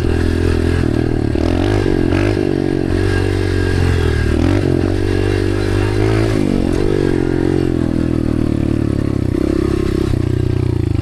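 Dirt bike engine running hard under changing throttle, its pitch rising and falling again and again as the rider works through the track.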